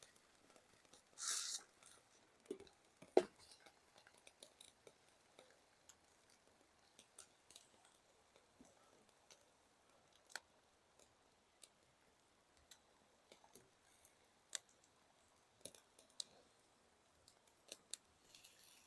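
Faint, sparse crackles and pops from a small wood campfire, with a short hiss about a second in and a louder knock around three seconds.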